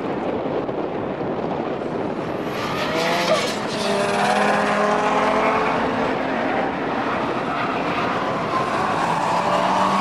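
Several cars' engines revving as they come through a corner. The sound gets louder about three seconds in, with the engine notes rising and falling as the cars accelerate toward the microphone.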